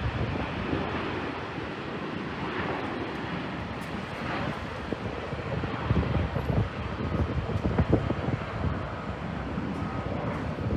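Wind buffeting the microphone in rough gusts, the strongest gusts coming about six to eight seconds in, over a steady outdoor rumble.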